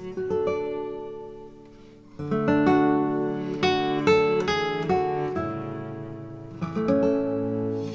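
Acoustic guitar music, plucked and strummed; the notes die away, then a louder passage comes in about two seconds in.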